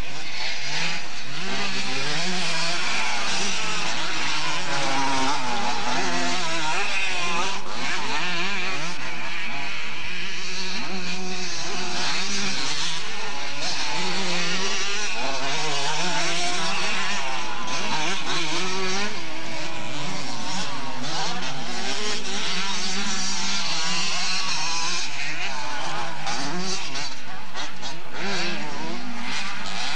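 Several two-stroke motocross bikes racing, their engines revving up and down at once in overlapping, constantly changing pitches.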